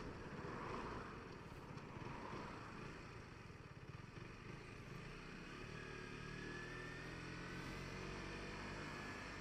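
KTM RC 125's single-cylinder four-stroke engine running under way, with wind and road rush over it. From about halfway the engine note comes through more clearly and rises slowly in pitch.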